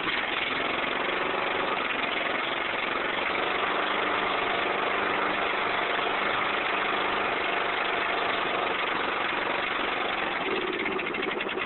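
Yard tractor engine running at a steady idle through a short, home-made exhaust of 1-inch threaded pipe fittings with no muffler. It is really loud.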